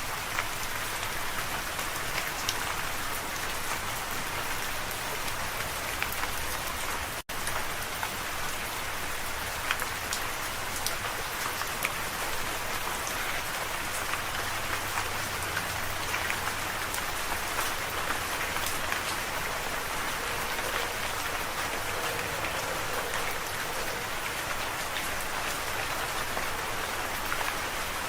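Steady rain falling, an even hiss with many small, sharp drop impacts through it. The sound cuts out for an instant about seven seconds in.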